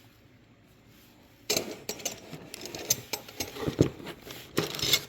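Metal garage door rollers and brackets being handled and fitted together, clicking, clinking and rattling. It starts about one and a half seconds in, with a few sharper knocks near the end.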